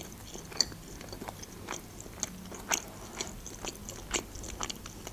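Close-miked chewing of a mouthful of calzone filled with cheese, chicken, mushrooms and juicy sauce: a string of soft mouth clicks and smacks, irregular, roughly two a second.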